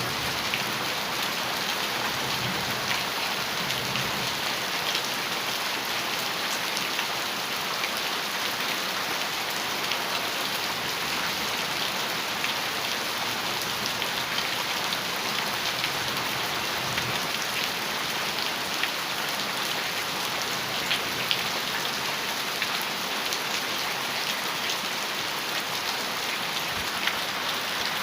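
Heavy rain falling steadily on a metal roof, with the sharp ticks of single drops striking the metal.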